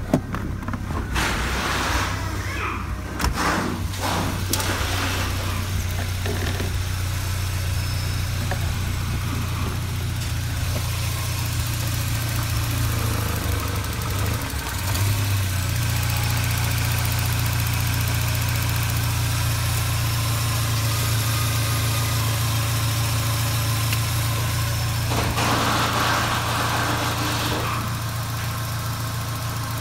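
Audi 80 B4's 2.0-litre ABK four-cylinder petrol engine idling steadily, with a sharp knock right at the start.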